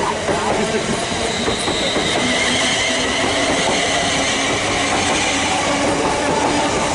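Greater Anglia electric multiple-unit passenger train running past at close range, a steady loud wheel-on-rail rumble with a faint tone rising slightly a couple of seconds in.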